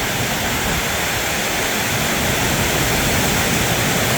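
Heavy wind-driven rain drumming loudly and steadily on a metal roof.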